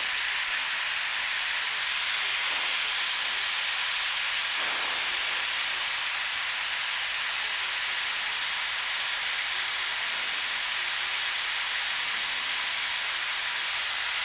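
Steady, even hiss of a Piper Archer II's cabin noise in flight on approach, with almost no low engine drone to it.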